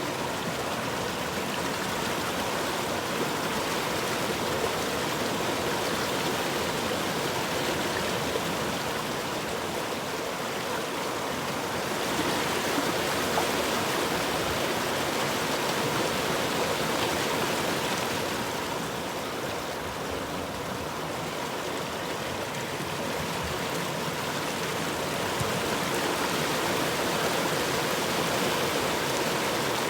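A river or stream flowing steadily, a continuous rush of water that swells a little louder and brighter twice.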